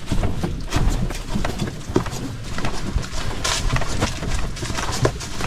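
Footsteps of a person walking along a rough portage trail: irregular footfalls and scuffs.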